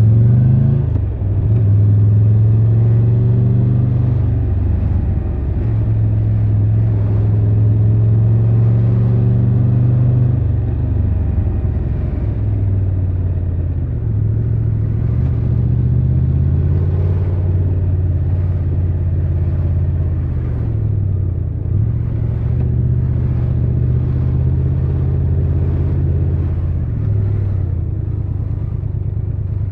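Triumph Tiger 1200 Rally Pro's three-cylinder engine under way in city riding. Its note shifts up and down several times as the rider throttles on and off through the gears.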